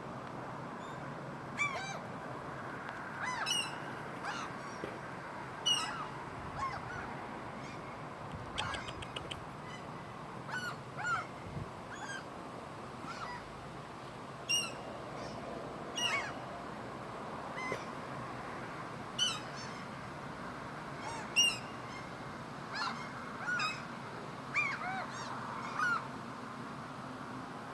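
Gulls calling, short yelping calls every second or two over a steady background hiss.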